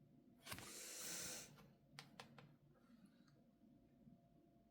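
Faint handling of tarot cards: a soft slide lasting about a second, then a few light clicks about two seconds in.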